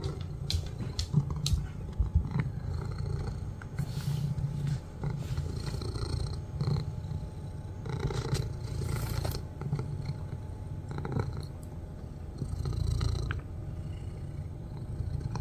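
Domestic cat purring loudly and continuously, the low rumble swelling and easing with each breath. A few sharp clicks sound in the first couple of seconds.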